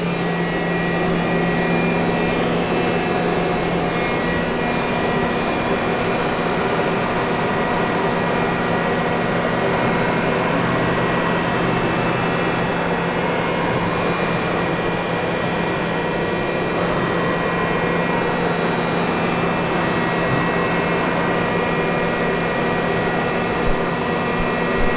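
Mighty Viper V-1600 vertical machining center running with a steady machine hum made of several constant tones, as its axes are jogged, with faint servo whine rising and falling in the middle.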